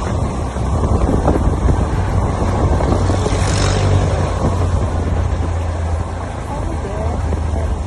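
Steady low rumble with a noisy hiss over it, with a brief rush of louder hiss about three and a half seconds in.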